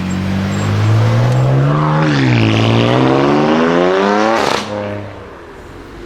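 BMW performance car engine accelerating hard. The pitch climbs, dips at a gear change about two seconds in, then climbs again. About four and a half seconds in it cuts off sharply with a brief crack, leaving a quieter engine note.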